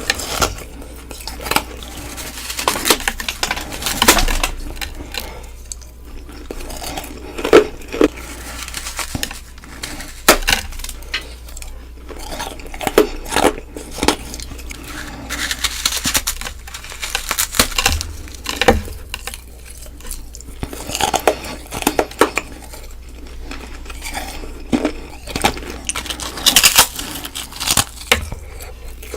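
Close-miked crunching of hard ice being bitten and chewed, many loud crisp bites and crackly chewing one after another.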